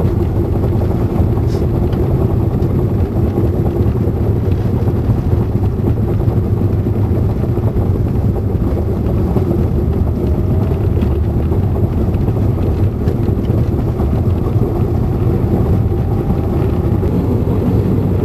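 Car cabin noise while driving: a steady low engine and tyre rumble heard from inside the car.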